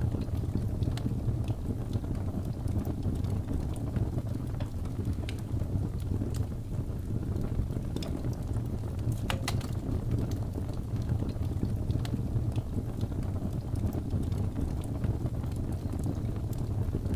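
Wood fire burning with a steady low rumble of flames and scattered crackles and pops, one sharper crack about nine seconds in.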